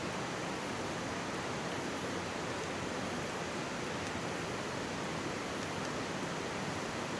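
Mountain stream flowing close by: a steady, even rush of water.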